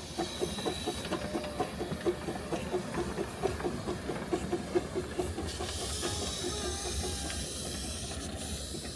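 Small steam locomotive working, with a quick run of exhaust chuffs about four a second and a steam hiss that swells from about halfway through.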